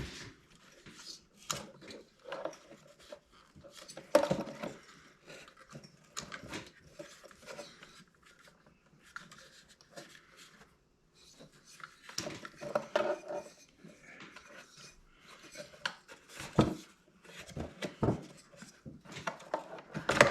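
Scattered clicks, clinks and knocks of metal and plastic parts and hand tools being handled while a diesel air heater is taken apart.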